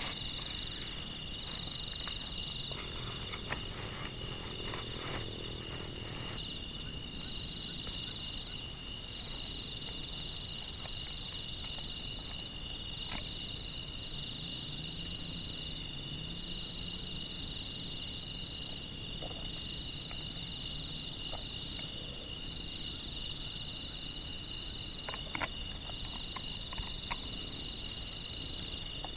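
A steady, high-pitched pulsing chorus of calling animals, typical of forest insects or frogs, over the even hiss of rain, with a few light clicks of drops here and there.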